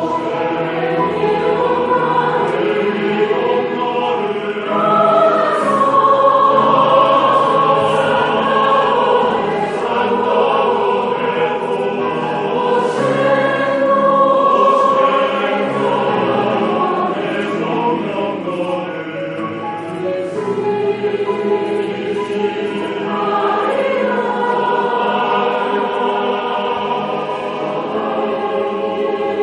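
A mixed group of men's and women's voices singing a song together in chorus, held notes moving from pitch to pitch without a break.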